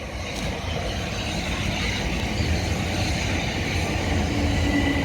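Electric multiple-unit train approaching and running through the station without stopping, its low rumble building steadily. A steady whine sets in near the end.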